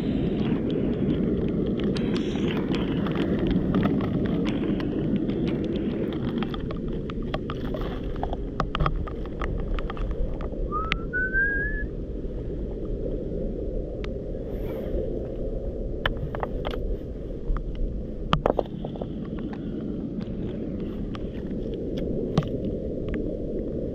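Outdoor foreshore ambience: a steady low rumble with scattered sharp clicks, and a short rising whistle about eleven seconds in.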